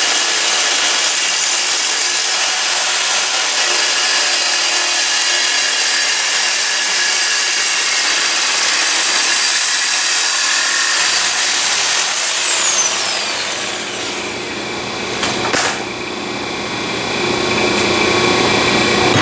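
Electric power saw cutting steel exhaust tubing: a steady high-pitched whine with grinding noise, the motor winding down about twelve seconds in. A short clatter follows a few seconds later, then more cutting noise near the end.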